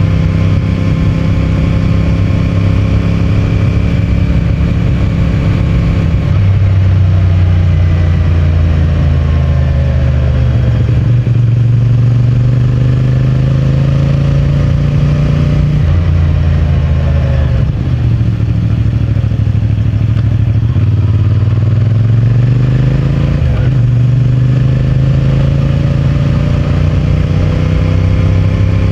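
CFMOTO 450MT parallel-twin engine and stock exhaust under way, the revs climbing and then dropping sharply with gear changes a few times.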